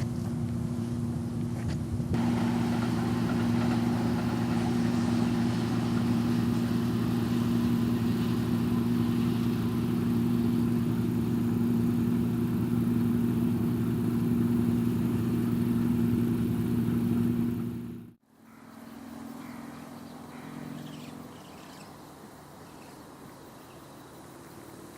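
Steady, loud vehicle hum with a low droning tone, cut off suddenly about eighteen seconds in, leaving quieter outdoor background noise.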